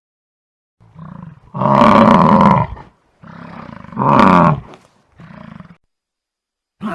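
A large farm animal calling in a repeating pattern of loud, pitched calls alternating with quieter, rougher ones. The two loudest come about two seconds apart.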